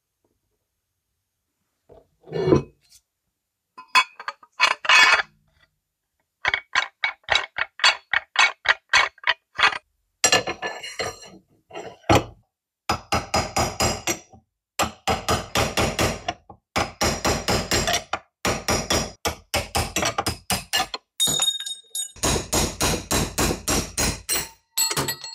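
A hand tool worked in rapid back-and-forth strokes on a steel part, about four to five strokes a second, in runs broken by short pauses, after a few separate clinks in the first seconds.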